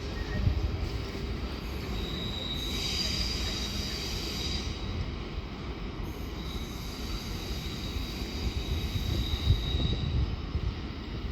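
Train moving along the rails with a steady low rumble. Its wheels give a thin, high squeal twice: once for a couple of seconds, then again for about three seconds.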